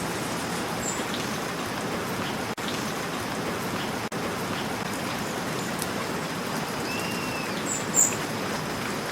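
Steady rain falling. A few short, high bird chirps break through, the loudest near the end, and the sound cuts out for a split second twice in the middle.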